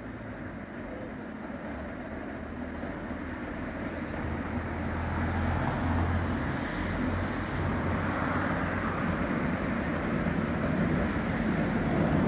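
Electric locomotive-hauled passenger train approaching, a rumble that grows steadily louder, with a low hum that stands out about halfway through.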